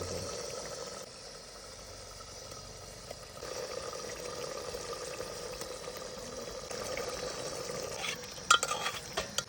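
A pan of curry frying with a steady sizzle. A few sharp knocks, like a utensil against the pan, come near the end.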